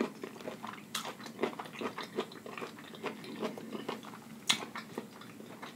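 A person chewing a mouthful of food with closed lips, with irregular small wet mouth clicks and smacks and a sharper click about four and a half seconds in.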